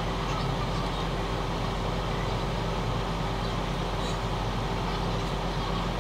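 Car engine idling steadily, heard from inside the cabin: a constant low hum with a faint held tone above it.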